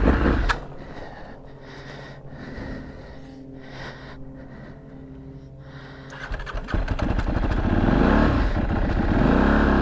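Aprilia SXV 550 V-twin supermoto engine: loud for a moment, then running at a quieter steady idle for several seconds, then revving up again about six seconds in, its pitch rising twice as the bike pulls away.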